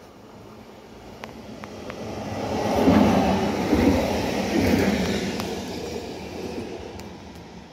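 EN99 electric multiple unit passing close by: wheels on rails rumbling, building to its loudest about three to five seconds in as the train goes past, then fading as it runs away.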